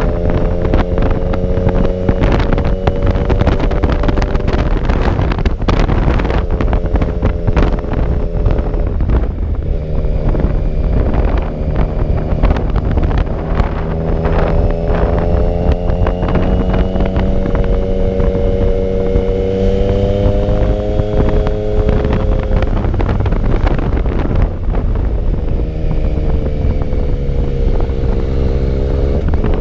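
Motorcycle engine running at road speed under heavy wind noise on the microphone. The engine note drifts up and down with the throttle and drops out briefly several times before picking up again.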